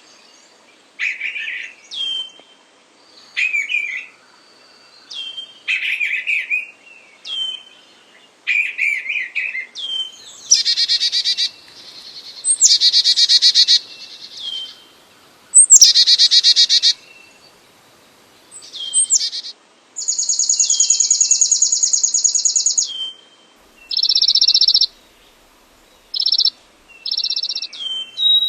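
Recorded songs of several perching songbirds played one after another: short, high-pitched phrases with pauses between them, moving on to rapid trills, including one long, even trill lasting about three seconds.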